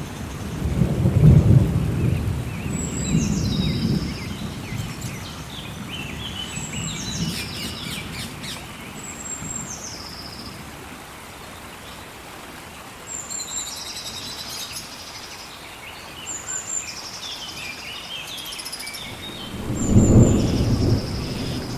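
Steady heavy rain with thunder rumbling, loudest about a second in and again near the end. Over it a bird repeats a high call that steps down in pitch every few seconds, with scattered chirps between.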